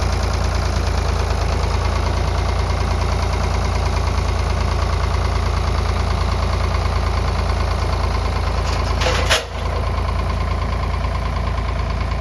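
Farm tractor engine running steadily while it works the log, with one brief sharp noise about nine seconds in.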